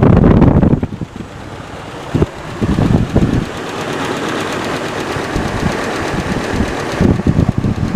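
Chrysler 5.7 Hemi V8 running at idle with a rapid, rhythmic knocking, the engine knock being filmed as a fault. It is loudest in the first second, then quieter, with stretches of denser knocking that come and go.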